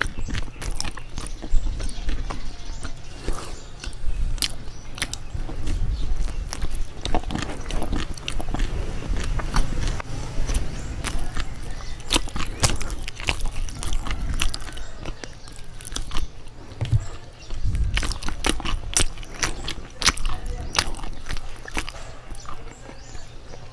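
A person chewing and biting soft bread right up against a microphone: a steady run of sharp mouth clicks over low chewing thuds.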